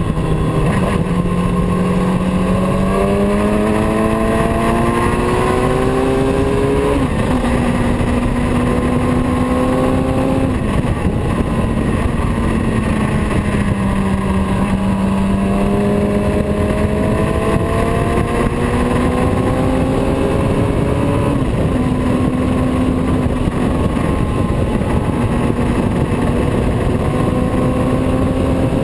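Motorcycle engine pulling through the gears while riding: its pitch climbs steadily, then drops suddenly at each gear change, a few times, under a steady loud rushing noise.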